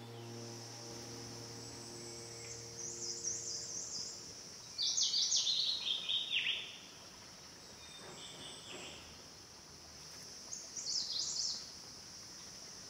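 Forest ambience: a steady high-pitched insect drone, over which a songbird sings four short phrases of quick notes that mostly run downward. The loudest phrase comes about five seconds in.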